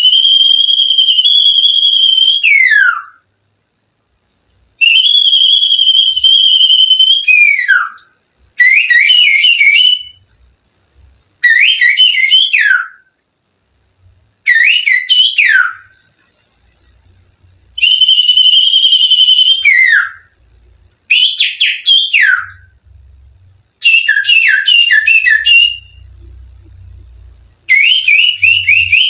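Finger whistling with the little finger, imitating a Sirtu bird's song. It comes in about nine loud phrases split by short pauses: long wavering held notes that glide down at the end, alternating with quick runs of falling chirps.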